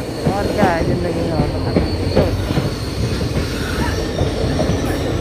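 Indian Railways passenger train running on the track, heard from inside the coach: a loud, steady rumble of wheels on rails, with high gliding wheel squeals in the first second or so.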